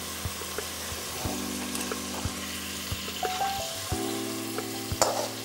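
Onion and tomato frying in oil in a steel pot: a steady soft sizzle, with scattered light clicks of metal utensils and a sharper metallic clatter near the end.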